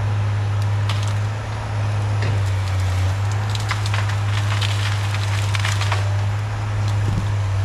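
Cat 318B excavator's diesel engine running steadily, with wood cracking and splintering for a few seconds midway as brush and branches are broken.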